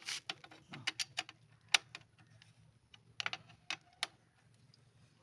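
Irregular sharp metallic clicks and taps of hand tools, a wrench working the exhaust's mounting bolts, with a quick cluster of clicks a little after three seconds in.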